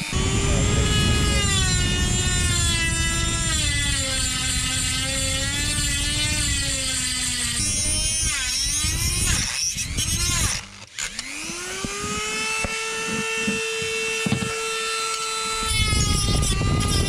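High-speed power tool with a cutting disc cutting a metal shaft down by 12 mm. The motor's whine sags and wavers under load beneath a rough grinding noise. About ten seconds in it stops briefly, spins back up to a steady unloaded whine, then bites into the metal again near the end.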